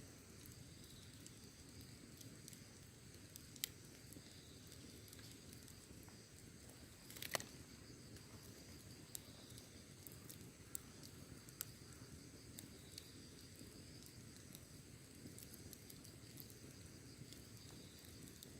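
Quiet campfire crackling, with scattered sharp pops (the loudest about seven seconds in) over a steady high chirring of insects.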